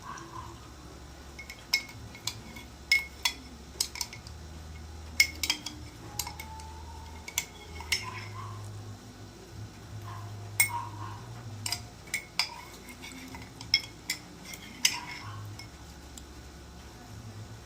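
Cutlery clinking against a plate while eating: many sharp, irregular clinks, a few of them louder.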